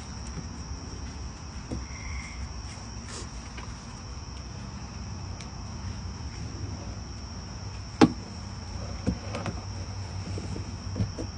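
Crickets trilling steadily and high-pitched, with a few sharp knocks and clicks from handling, the loudest about eight seconds in.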